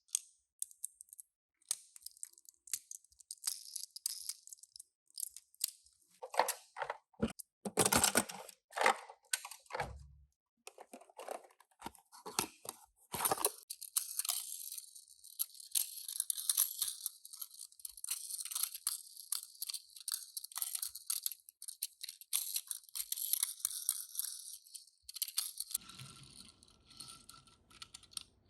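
Toy packaging being handled and opened: crackling, crinkling plastic and tearing, with scattered clicks and a few louder bursts, then a steady rustle for about ten seconds.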